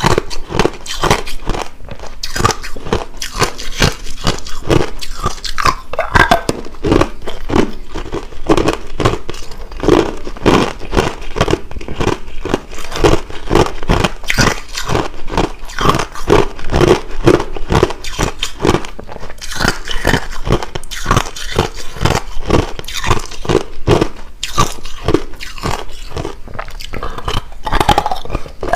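Person biting and chewing hard clear crushed ice: loud, rapid, irregular crunches, several a second, close to the microphone.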